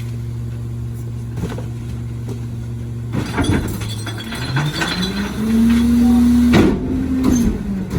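CNG engine of a Crane Carrier rear-loader recycling truck idling steadily, then a clatter of knocks and rattles about three seconds in. The engine then revs up and holds a steady higher pitch, with a sharp bang near the end of the rev, before it drops back.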